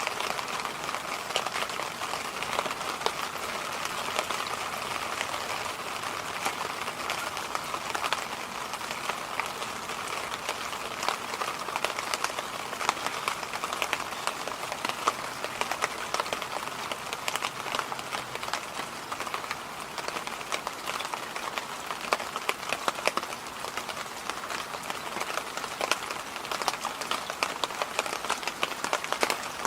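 Electric fan running steadily: an even rushing noise peppered with faint, irregular ticks.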